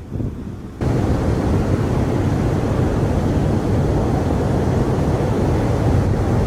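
Strong hurricane wind buffeting the microphone in a steady roar, with surf mixed in underneath. It jumps suddenly to full loudness about a second in.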